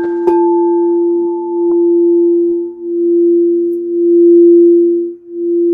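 Singing bowl ringing with one sustained, steady tone. Its loudness swells and fades every second or so, and there are two light knocks near the start.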